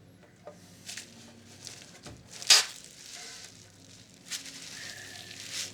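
Hands handling the parts of an opened video recorder: a few short rustling and scraping noises with light clicks, the loudest about halfway through.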